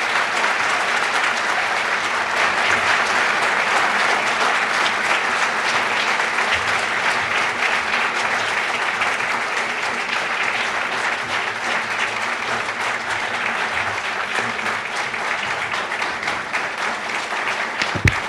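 Audience applauding: a large crowd clapping steadily for a long stretch, tapering slightly toward the end, with a brief thump near the end.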